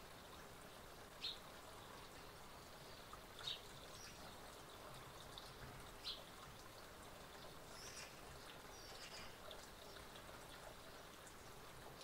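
A few short, high chirps from small garden birds over a faint steady background hiss. The three clearest calls come about two and a half seconds apart, with fainter ones later.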